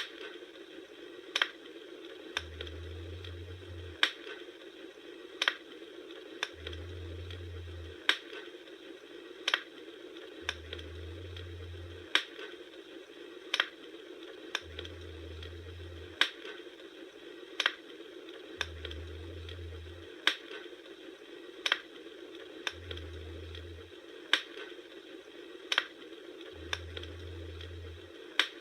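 Bonfire crackling: sharp wood pops about once a second over a steady hiss of burning, with a soft low rumble swelling and fading about every four seconds.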